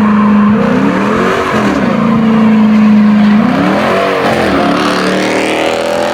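Car engine revved hard in repeated surges, climbing, holding high for a second or two at a time, then dropping and climbing again, with tires squealing.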